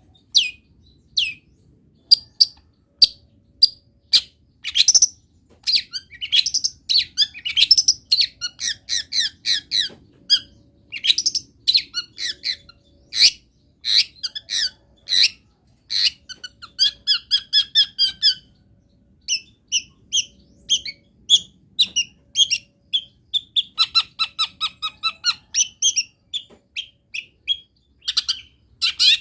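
Long-tailed shrike singing a fast, varied song of short high-pitched chirps, whistles and rapid repeated note series, mimicking the calls of wild birds.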